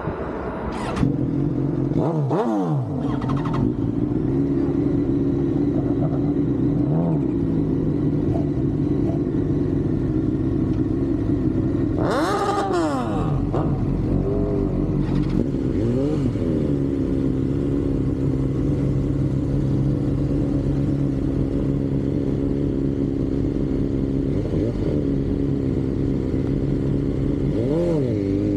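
Yamaha R1 sport bike's inline-four engine running under way at a steady pitch, with the throttle opened and closed several times: a falling rev about two seconds in, a big rev rising then dropping about halfway through, and smaller revs later on.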